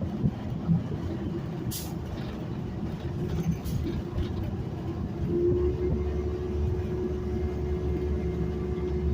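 Transit bus running: a steady engine and road rumble, with a short hiss about two seconds in. A steady engine hum comes up more strongly about five seconds in.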